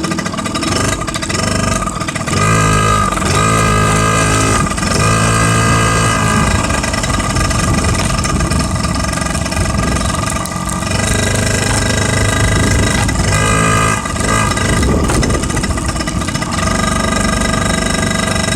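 Small motorcycle engine running while being ridden, its pitch rising and falling a couple of times as the throttle changes, with wind rumbling on the microphone.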